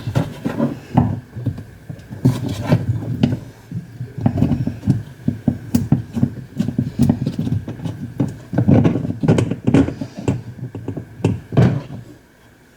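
Irregular knocking and clattering of hand tools and metal parts while a washing machine is being taken apart, with many short knocks at uneven intervals.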